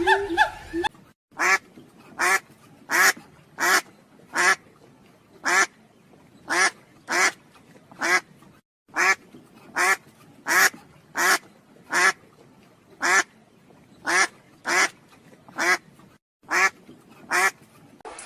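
A series of about twenty short, harsh animal calls, each a brief burst, spaced irregularly about half a second to a second apart.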